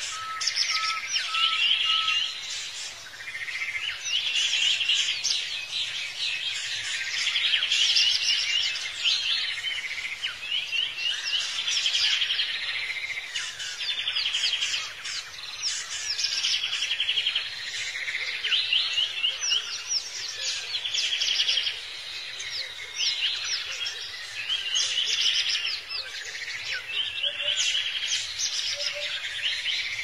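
Wild birds singing in a steady chorus, a phrase of trills and quick sweeping notes repeating every two to three seconds. A short row of evenly spaced piping notes sounds in the first two seconds, and a few lower single notes near the end.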